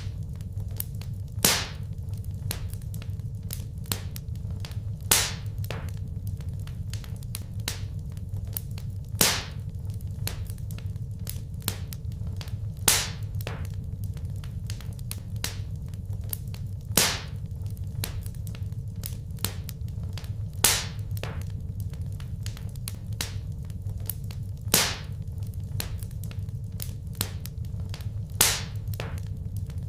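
Wood fire crackling in a fireplace: a steady low rumble of burning with constant small snaps, and a louder sharp pop about every four seconds.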